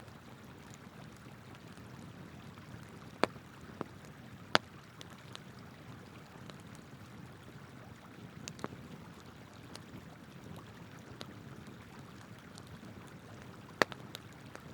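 Wood campfire crackling, with scattered sharp pops, the loudest about three, four and a half and fourteen seconds in, over the steady rush of a flowing river.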